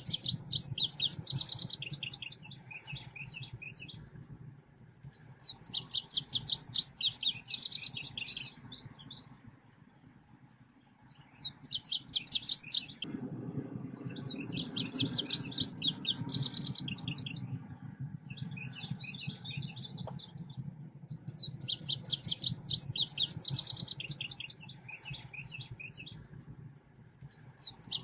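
Songbird known in Indonesia as selendang biru singing in repeated bursts of rapid, high chirping notes, each burst two to three seconds long and coming every few seconds. This is a lure song of the kind used to attract the bird or train caged birds. A faint low hum runs underneath.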